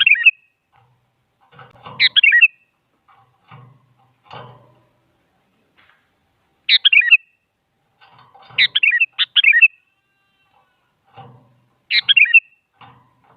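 Sooty-headed bulbul (kutilang) singing short, bright, bubbling phrases of a few quick notes, about six phrases spaced a second or more apart.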